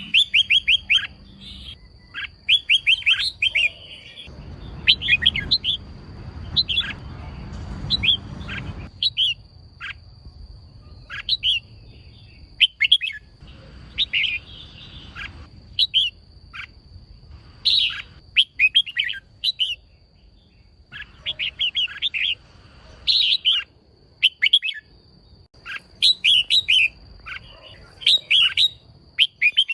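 Female red-whiskered bulbul calling: quick clusters of short, sharp chirps, repeated every second or two. This is the female call used to provoke male bulbuls into singing. A low rumbling noise sits under the calls for a few seconds near the start.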